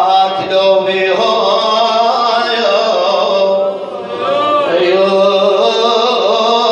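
Male voice chanting an Arabic mourning lament (na'i), drawing out long notes that waver and bend in ornamented runs.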